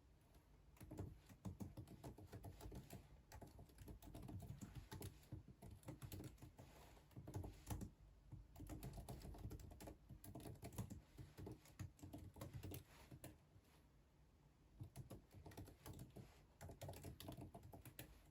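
Quiet typing on a computer keyboard: quick runs of key clicks, pausing briefly about three-quarters of the way through before a few more bursts.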